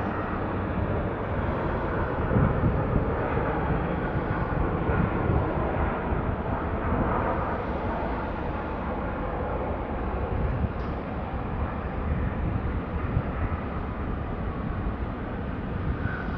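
Jet airliner engine noise at an airport, a steady wash of noise with no clear rise or fall.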